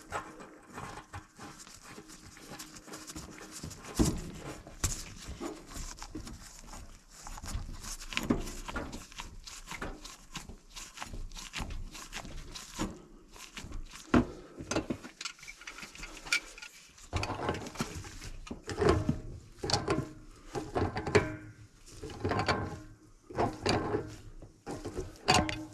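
Irregular clicks, knocks and clatter of hand work with tools and fittings, coming thicker and louder in the last few seconds.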